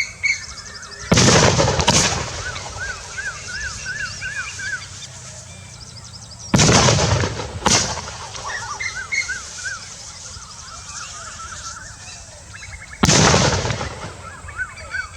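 Loud explosive bangs set off to scare wild elephants away. They come in three goes, the first two doubled, and each bang trails off in a long echo. Birds chirp repeatedly between the bangs.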